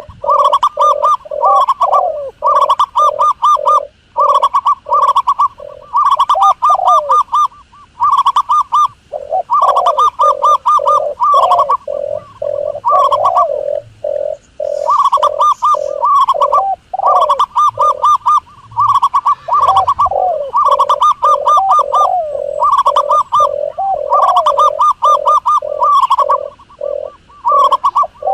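Doves cooing in quick runs of short pitched notes, run after run with brief gaps between.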